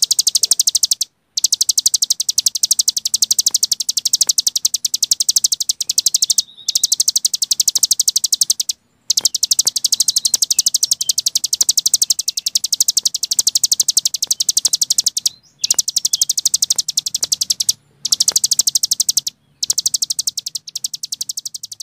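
A cici gunung songbird giving its drilling 'ngebren' trill: a high-pitched, rapid, even run of notes at roughly fifteen a second. It comes in long runs of a few seconds each, broken by short pauses.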